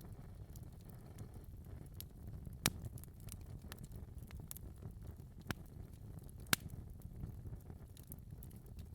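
Wood fire crackling in a fireplace: a low steady rumble of burning with scattered small ticks, and three sharper pops, the first a little under three seconds in, the others about five and a half and six and a half seconds in.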